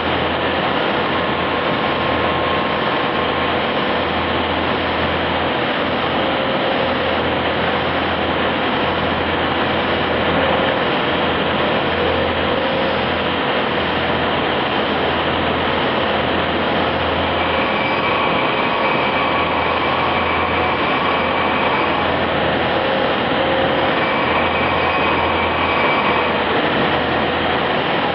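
CNC machine running with a loud, steady mechanical noise. A whine comes and goes over it in the second half.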